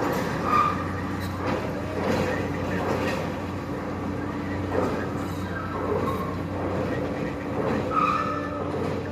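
Steady engine or heavy machinery hum with short high squeals now and then.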